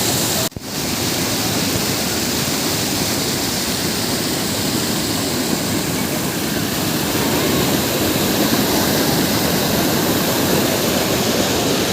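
Waterfall rushing: a loud, steady roar of falling water. It drops out for an instant about half a second in, then carries on unchanged.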